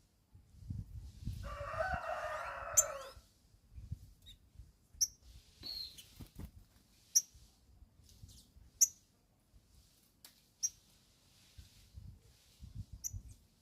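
Birds at a feeder: a short, sharp, high chirp repeated about every two seconds, with a longer, lower, harsh call lasting about one and a half seconds near the start.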